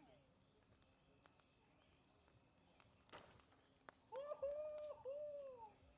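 A short crash about three seconds in as a large piece is thrown into the campfire, followed by a drawn-out 'ooh' of awe in two rising-and-falling swells, the loudest sound. A steady high chirring of night insects runs underneath.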